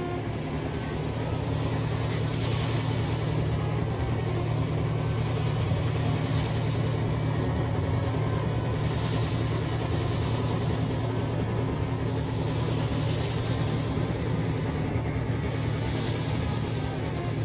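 A steady low rumble like a running engine, with a hissing wash on top that swells and fades every three to four seconds.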